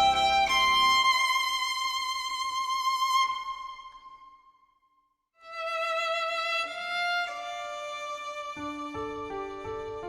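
Background music: a violin playing a slow melody in long notes with vibrato. It fades out about four seconds in, is silent for about a second, then starts again, with lower accompanying notes joining near the end.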